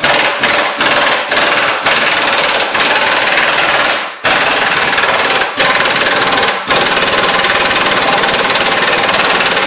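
Impact wrench hammering hard at a bolt, running in long bursts with short breaks between them, as it works the bolt loose.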